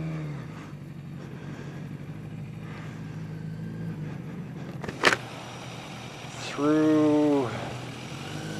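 Yamaha XJ750 Seca's inline-four engine running at a steady low speed under way. A sharp click comes about five seconds in, and near the end a loud pitched sound lasts under a second.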